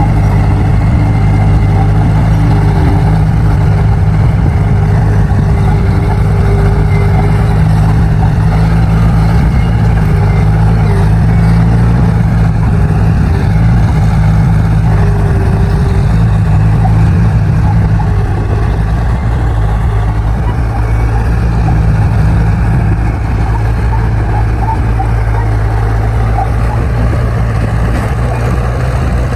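Bulldozer's diesel engine running steadily under working load, a loud low drone that eases a little after the middle.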